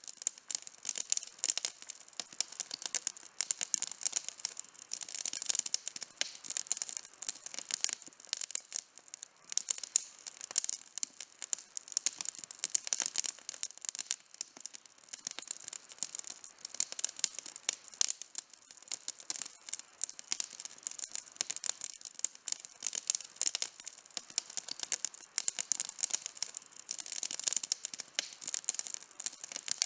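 Outdoor campfire burning, wood crackling and popping in a dense, irregular stream of sharp little snaps with a faint hiss beneath.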